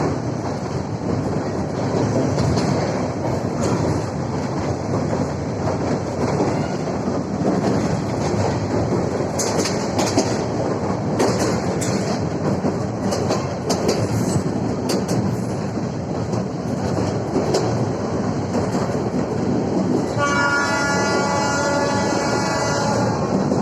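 Train running on rails, a steady rumble with the wheels clicking over rail joints. Near the end the train's horn sounds for about three and a half seconds.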